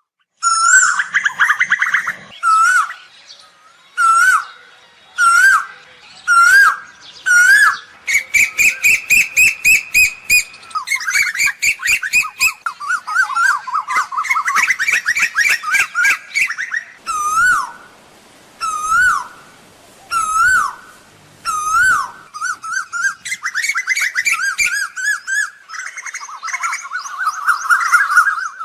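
Asian koel calling. Short hooked notes, each rising then dropping, repeat about once a second, broken up by fast runs of rapid, bubbling notes.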